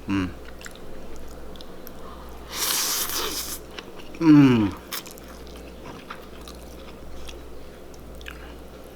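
Mouth noises of eating spicy shrimp noodles: biting and chewing, with a loud noisy slurp about a second long a couple of seconds in. Short falling voiced sounds come at the start and just after the slurp.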